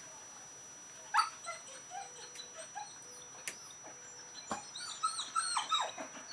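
Dog whining in a string of short, high-pitched whimpers that start about a second in and come thicker and louder near the end, with a few sharp clicks between them.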